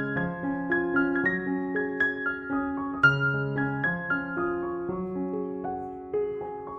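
Background piano music: a gentle run of single notes over a low bass note that returns about every three and a half seconds.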